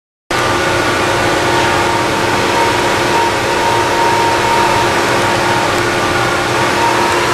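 Fluid transfer pump running steadily while pumping fresh oil into the truck's supercharger, a constant motor hum with a few held tones. It cuts in suddenly just after the start.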